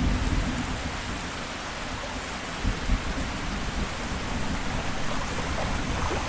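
Steady rain falling on rainforest foliage, an even hiss, with the low rumble of thunder dying away in the first second.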